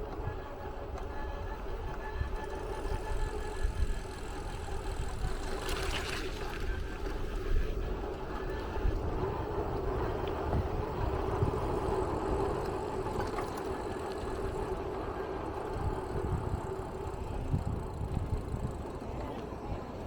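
A vehicle running over a low, uneven rumble, with a steady squeaky whine held on one pitch throughout and strongest in the middle stretch.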